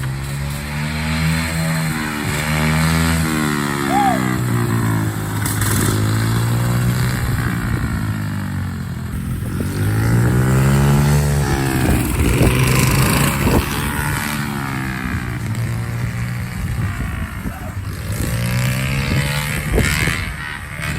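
Small single-cylinder dirt bike and mini bike engines (a Honda CRF50 among them) revving, the pitch climbing and then dropping several times as the riders accelerate, shift and ease off.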